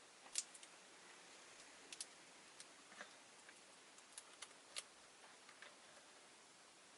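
A handful of sharp, irregular clicks and taps from rosy-faced lovebirds in their cage, over near silence; the loudest click comes about half a second in.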